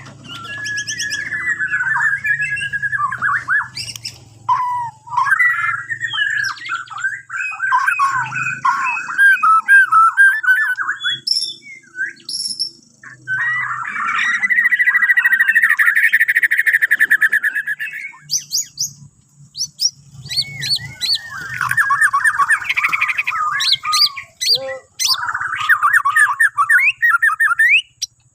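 White-rumped shama of the Bornean form singing long, varied phrases of rich whistles and fast trills, broken by short pauses, over a faint low hum.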